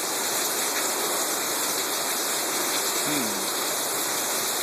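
Heavy thunderstorm downpour: the steady, even hiss of rain falling hard.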